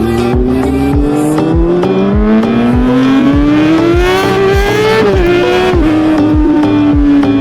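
Yamaha R15 V3's single-cylinder engine pulling up through the revs, its pitch climbing steadily for about five seconds, then dropping and holding steady. A music track with a steady thumping beat plays underneath.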